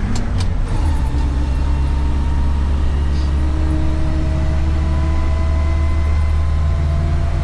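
1972 Land Rover Series III's 2.5-litre petrol four-cylinder engine pulling steadily on the road, heard from inside the cab with drivetrain and road noise. The engine note rises slightly in the second half.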